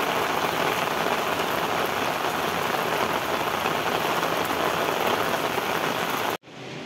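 Heavy rain pouring onto ground covered in standing water, a dense, steady hiss of splashing drops. It cuts off abruptly near the end, leaving a quieter steady background.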